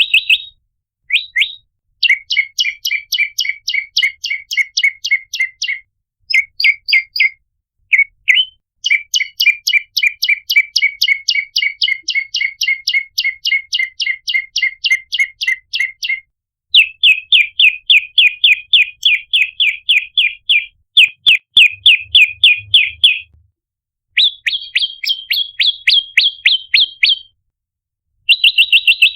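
Prenjak lumut calling in long runs of rapid, sharp, repeated chirps, about six or seven notes a second, broken by short pauses. It is a lure call used to draw or stir up other prenjak.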